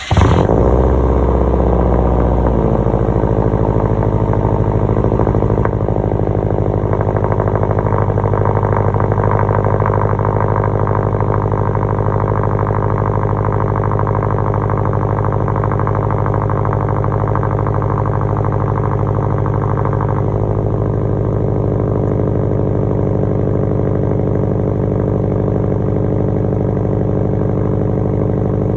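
A 2010 Subaru STI's turbocharged 2.5-litre flat-four catches on a cold start and runs at a fast, steady cold idle, sounding through an exhaust with the muffler and resonator removed. The idle eases down slightly about six seconds in and again around twenty seconds in.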